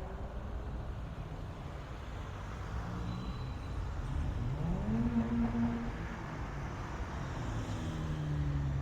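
A car engine runs over a steady low rumble. About four seconds in, its note rises steeply as it revs up, holds for about a second, then drops away.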